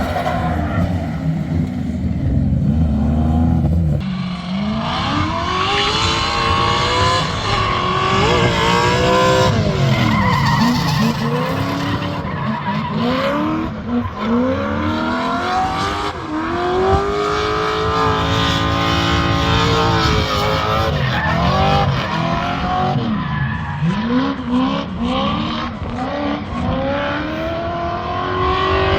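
Drift car engine revving hard, its pitch rising and falling over and over as the throttle is worked, with tyre squeal from the sliding tyres.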